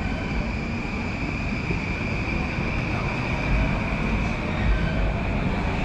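JR Yamanote Line commuter train on the elevated track, with street traffic: a steady rumble and a steady high whine.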